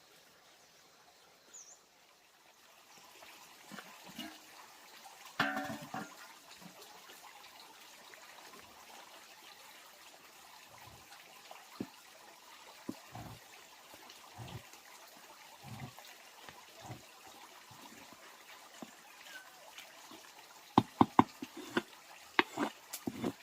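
Scattered light knocks and thumps over a faint steady hiss, with a louder clatter about five seconds in and a quick run of sharp clicks near the end.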